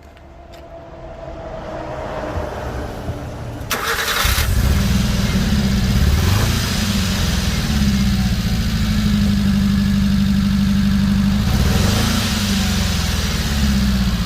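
Subaru Sambar's supercharged four-cylinder engine starting about four seconds in, then idling steadily. It idles with a misfire on cylinder 2, traced to a failed ignition coil.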